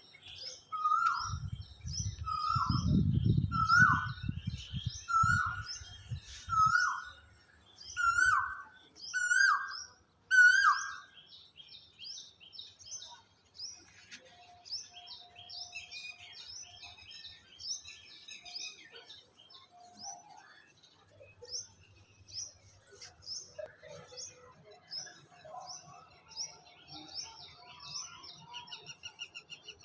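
Wild birds calling. One bird repeats a loud, short hooked call about eight times, roughly once a second, over a mix of high chirps from other birds, with a low rumble under the first few calls. After about eleven seconds the repeated call stops, and quieter high chirping and trills go on.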